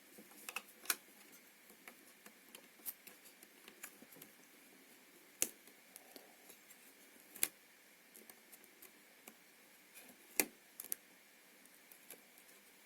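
Scattered small clicks and taps of hands handling wires, connectors and test gear on a workbench, a few sharp ones standing out, over a faint steady hiss.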